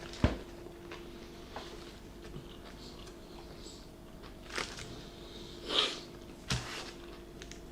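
People chewing and biting into Subway sandwiches, with a few short, scattered mouth and eating noises. A sharp knock just after the start is the loudest sound, over a faint steady hum.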